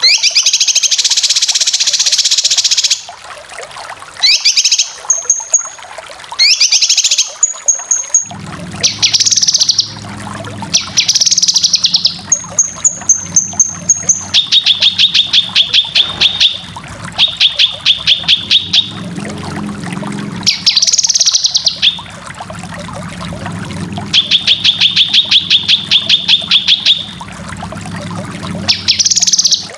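Cucak kinoy singing in loud, fast, harsh repeated phrases of rapid chattering notes, the 'besetan' runs that bird keepers use to master competition birds. From about eight seconds in, a low steady hum runs underneath.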